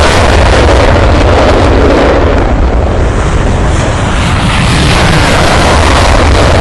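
Tornado GR4 jet, with its twin RB199 turbofans, making a loud, steady roar as it flies low. The sound dulls for a moment in the middle, then brightens again.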